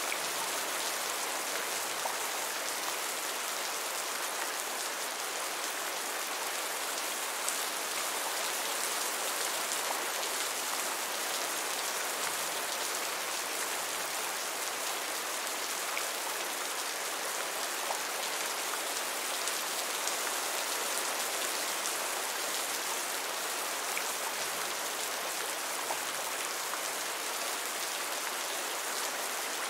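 Heavy rain falling steadily, an even hiss with faint single drop ticks now and then.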